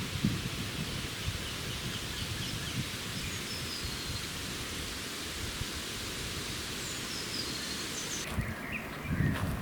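Forest ambience: a steady even hiss with a few faint bird chirps. Near the end it changes abruptly to close low knocks and rustling.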